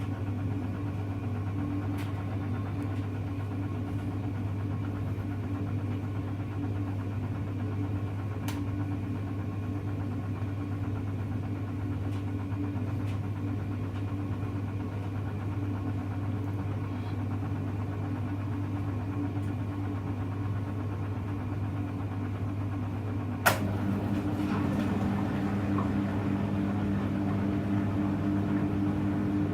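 Hoover Electra front-loading washing machine running with a steady motor hum. About 23 seconds in there is one sharp click, after which a second, higher hum joins and the sound gets a little louder.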